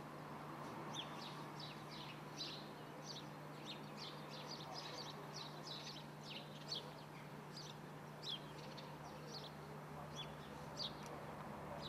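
Small birds chirping: many short, high chirps, often several in quick succession, over a steady low hum.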